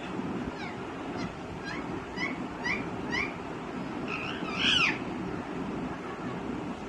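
Green ringneck parakeet calling: a run of about six short rising chirps, roughly two a second, then a longer, louder call about four seconds in.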